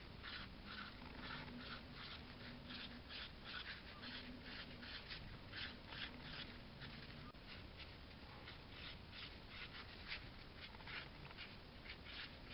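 Faint scratching of a pen on paper in short, quick strokes, about three a second, drawing small round berries.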